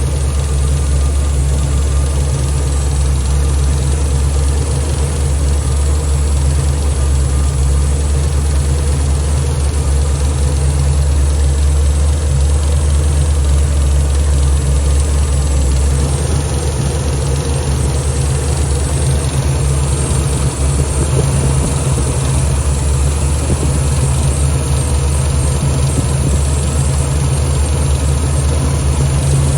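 Cutlass car engine idling steadily, a constant low hum that eases slightly about halfway through.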